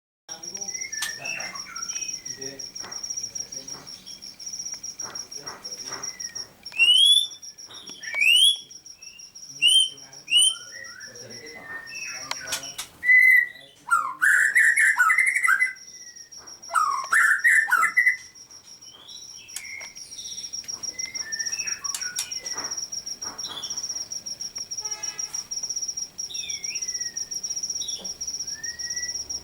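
Captive songbirds calling: loud sharp rising whistles, then loud warbled phrases near the middle, with scattered chirps throughout, over a steady high-pitched tone.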